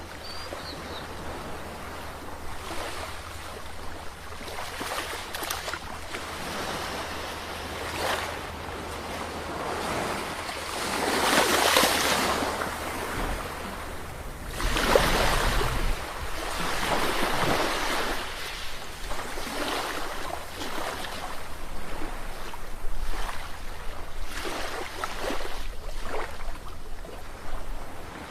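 Sea waves breaking and washing on the shore, a continuous surf that swells and falls back every few seconds, with the biggest waves breaking about twelve and fifteen seconds in.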